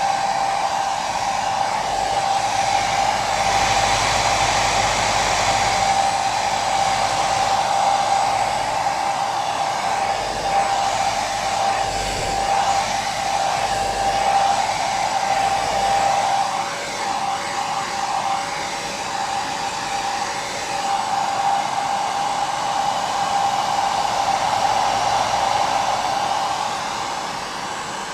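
Electric hair dryer running continuously: a steady rush of air with a high motor whine. The whine wavers briefly a little past halfway, then settles again.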